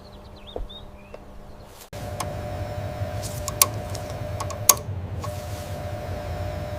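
A faint low hum with a few soft high chirps. About two seconds in it changes suddenly to a louder, steady machine-like hum with a low rumble, broken by a few sharp clicks.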